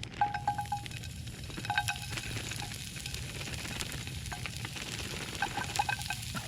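Onions sizzling in a hot frying pan, a steady hiss, with a utensil stirring and scraping in the pan a few times: at the start, about two seconds in, and near the end.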